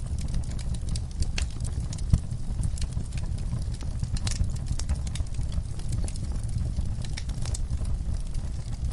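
Wood fire crackling in a fireplace: many scattered sharp pops and snaps over a steady low rumble.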